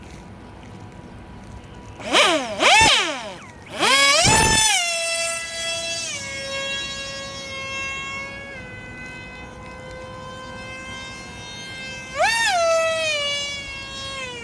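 RC model Su-30's electric motor and propeller whining as the throttle is worked: two quick blips about two seconds in, then a run up to full power that settles to a steady, slightly falling cruise pitch, with another short burst of throttle near the end.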